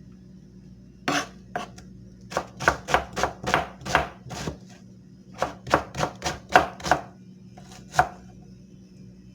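Knife blade drawn in quick short strokes across a sharpening surface, about three strokes a second, in two runs with a brief pause between them.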